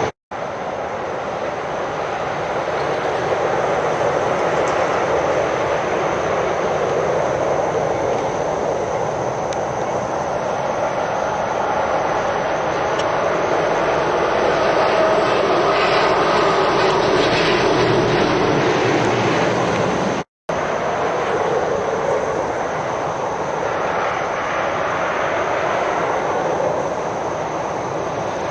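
Heavy lorries passing on a road: a steady wash of diesel engine and tyre noise that swells toward the middle. It is broken by a brief silent cut just after the start and another about two-thirds of the way in.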